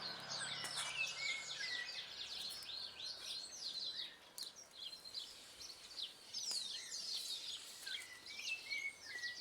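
Wild birds chirping: runs of quick downward-sweeping chirps, one run in the first few seconds and another after the middle, with short lower notes in between.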